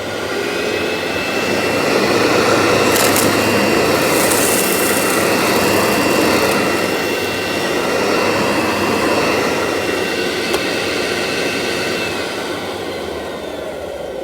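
Workhorse vacuum cleaner running steadily, a whooshing suction noise with a high whine from the motor, with a couple of brief sharp clicks.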